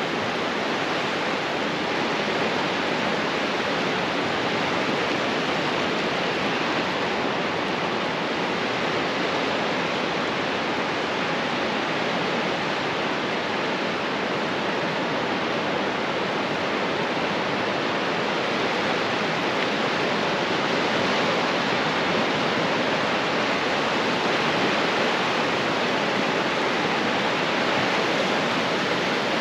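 Ocean surf breaking on a beach: a steady, even rush of water noise with no single wave standing out.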